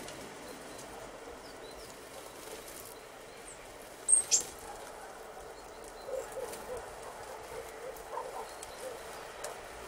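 Great tits calling at a sunflower-seed feeder. A few faint high chirps come first, then about four seconds in a sharp, high call sweeps downward twice in quick succession, the loudest sound. Near the end a run of short soft notes follows, over a steady background hiss.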